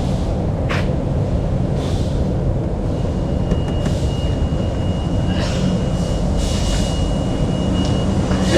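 A steady, loud, low rumble, with a thin high steady whine joining about three seconds in.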